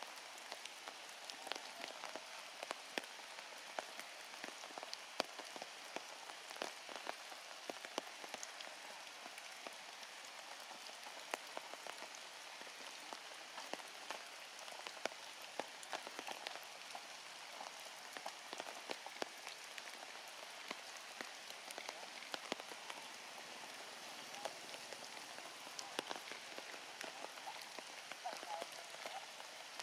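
Heavy rain falling steadily, with many sharp drips and drops splashing close by.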